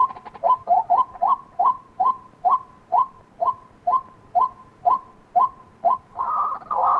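White-breasted waterhen calling: short rising notes repeated about twice a second, running together into a louder, harsher stretch near the end.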